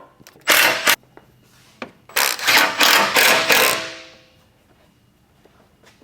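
Bolts joining aluminum skid plate sections being tightened with a tool: a short mechanical burst about half a second in, then a longer run of rapid ratcheting noise that trails off before the halfway point.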